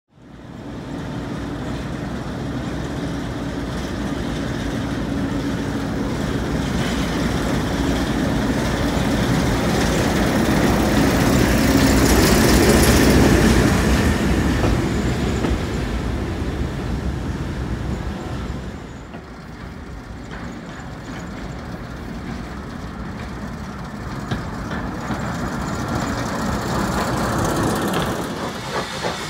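Train running on the rails, a steady rumble with wheel noise that builds to its loudest about halfway through. It drops suddenly, then a locomotive's running comes up again and turns to a rhythmic pulsing near the end.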